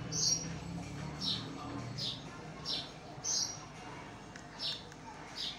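A small bird chirping over and over, short high chirps about one a second or a little faster, some with a slight downward slide.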